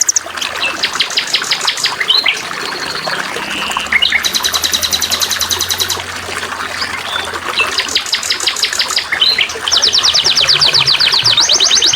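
Songbirds singing in fast, high trills and chirps over a steady trickle of running water; a louder trill starts near the end.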